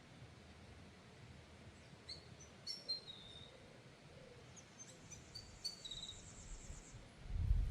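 Faint outdoor ambience: a few short bird chirps and an insect's pulsing high-pitched buzz, with a low rumble coming in near the end.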